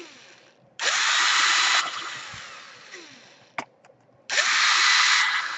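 Electric screwdriver undoing the laptop's heatsink screws, whirring in two short runs of about a second each and winding down after each, with a sharp click between them.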